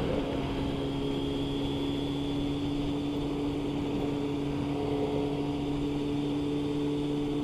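Motorcycle engine running at a steady cruise, one even drone with no change in revs, over a steady rush of wind and road noise.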